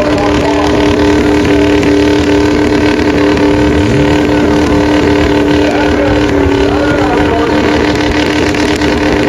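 Ford 6.0 Powerstroke V8 turbo diesel in a pickup running hard at high, steady revs on a rough course, its pitch dipping slightly about six seconds in.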